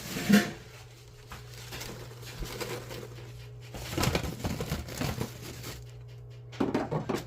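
Rustling and crinkling handling noises in three short spells, with scattered clicks, over a steady low hum.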